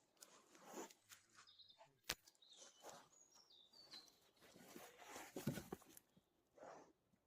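Faint outdoor ambience with a few small bird chirps, a single sharp click about two seconds in, and a brief scuffling noise about five seconds in.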